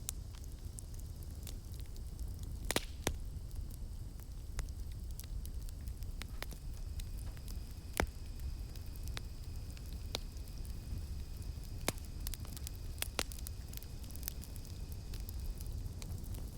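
Campfire burning with a low steady rumble and scattered sharp crackles and pops, the loudest about eight seconds in. Night insects such as cicadas keep up a thin, steady high drone behind it.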